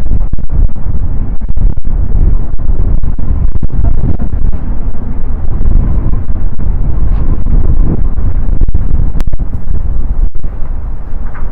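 Strong gusting wind buffeting the microphone: a loud, continuous low rumble that surges and dips.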